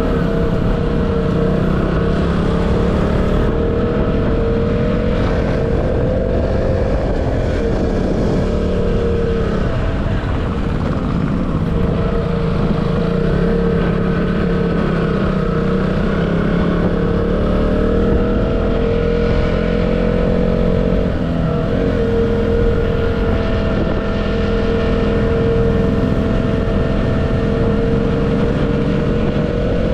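Motorcycle engine running steadily while riding, its pitch slowly rising and falling over several seconds as the speed changes, under a low rushing noise.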